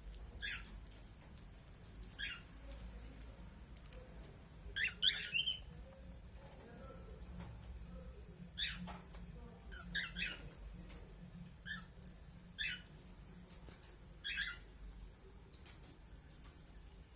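Small pet birds giving short, sharp chirps every second or two, with a quick cluster of louder chirps about five seconds in.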